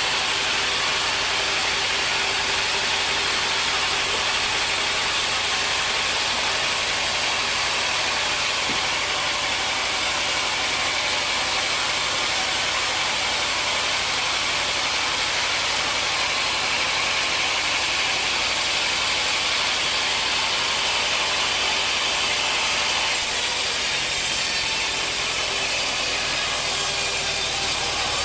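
Sawmill machinery running with a loud, steady mechanical noise. The tone shifts slightly about 23 seconds in.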